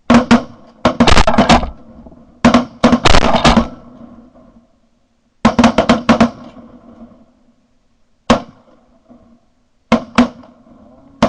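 Shotguns firing at geese: several guns go off together in rapid, overlapping volleys of loud blasts during the first few seconds. After that come scattered single shots about five and a half, eight and ten seconds in.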